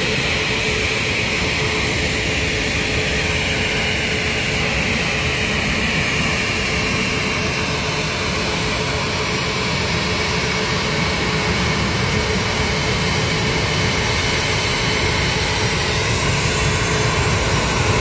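Jet airliner engines running loud and steady, with a high whine that slowly falls in pitch over the first half and a low rumble that builds toward the end.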